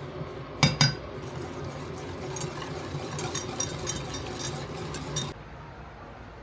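Kitchen utensil striking a mixing bowl: two sharp clinks, then a run of light clinks and taps as a dough mixture is stirred, stopping abruptly about five seconds in.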